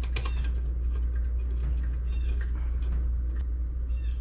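Screwdriver driving the last small screws into an HEI distributor cap: light clicks and faint squeaks over a steady low hum.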